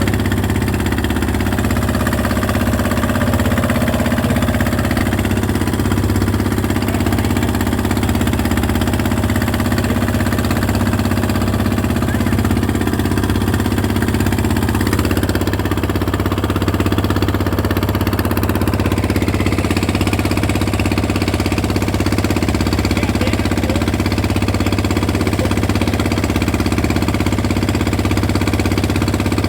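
An engine running steadily at a constant speed, with a low hum that neither rises nor falls.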